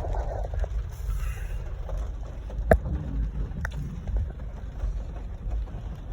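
Low steady rumble of a car, with two sharp clicks about a second apart near the middle.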